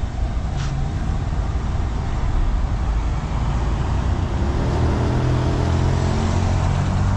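Large vehicle engine running as a steady low rumble, its engine tone growing stronger about halfway through.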